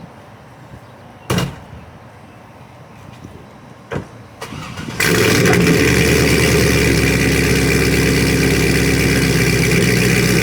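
A 2000 C5 Corvette's LS1 V8 starts: two short knocks, a brief crank about four and a half seconds in, then the engine catches suddenly at about five seconds and idles loudly and steadily.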